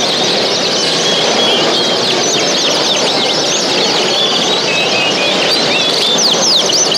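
A dense chorus of many small caged show birds chirping and singing at once, many high, quick calls overlapping, over a steady background hubbub.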